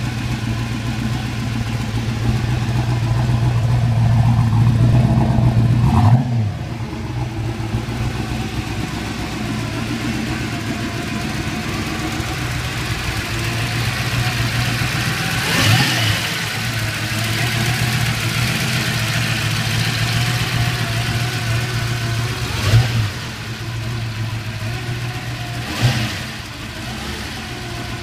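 Twin-turbocharged Chevelle engine idling with a steady note. It is revved up about four times, with quick rises in pitch about six seconds in, around the middle, and twice near the end, each falling straight back to idle.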